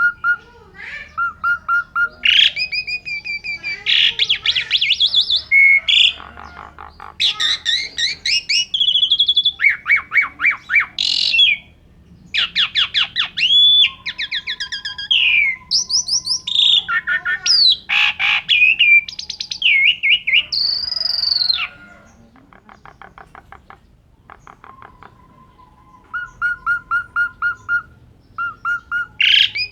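Asian pied starling (jalak suren) singing a long, varied song of rapid repeated notes, chattering trills and slurred whistles, with a few long flat whistles. It eases off into softer notes a little after two-thirds of the way through, then picks up again.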